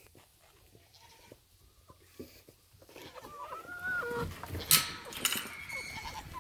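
A goat bleats once, a wavering call of about a second, about halfway through. It comes after a quiet stretch with a few faint clicks and is followed by short bursts of rustling noise.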